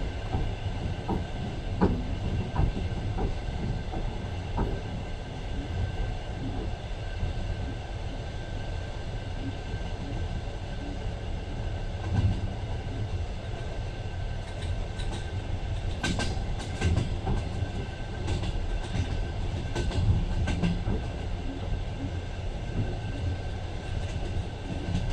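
Passenger train running, heard from inside the carriage: a steady low rumble with a faint steady whine, and wheels clicking and knocking over the rail joints, more thickly about two-thirds of the way through.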